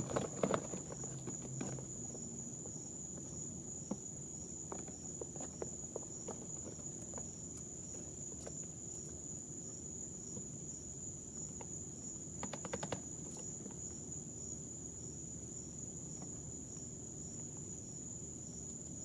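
A steady high, thin whine runs throughout. Over it come faint, scattered scratches and taps, with a short cluster about two-thirds of the way in: baby chicks shifting about on their bedding.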